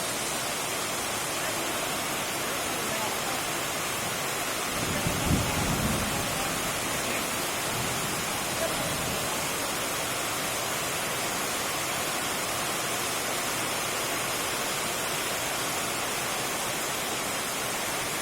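Steady rush of water, with a brief low rumble about five seconds in.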